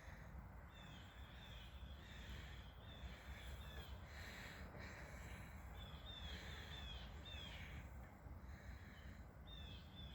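Unseen birds calling faintly: runs of short, quick, falling chirps repeated throughout, over a low steady rumble.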